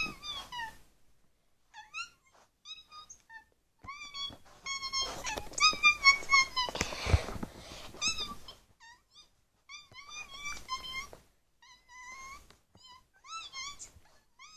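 Cat making many short, high chirping meows in quick runs, with a brief rustling thump about seven seconds in.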